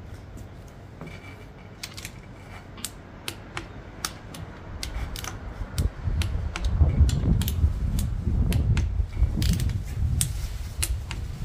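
Ratchet and torque wrench clicking irregularly as the 10 mm camshaft bearing cap bolts on a 2AZ-FE cylinder head are run down and torqued to 9 Nm. A low rumble joins in about six seconds in and grows louder.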